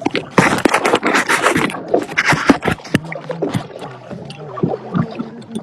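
Kayaks on the water: a loud splash of water about half a second in, lasting over a second, among repeated sharp knocks of paddles and hulls against each other.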